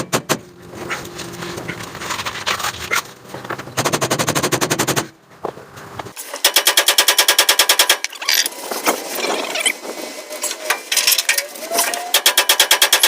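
Rapid bursts of metal-on-metal striking, about ten blows a second in runs of one to two seconds, with scattered single clanks between, from work driving the front spring bushings and pins of a 1950 Ford F1.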